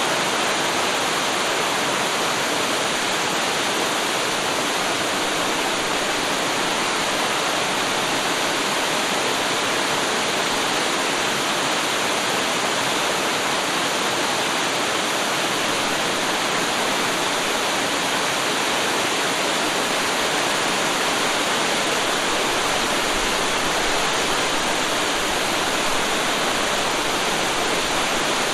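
Waterfall: water falling and splashing continuously, a steady even rush with no change in level.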